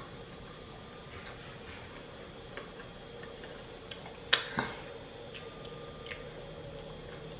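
Eating sounds: scattered small mouth clicks and a sharp crunch, with a smaller one just after, a little past halfway, likely a bite into a crisp Dorito taco shell. A faint steady hum sits underneath.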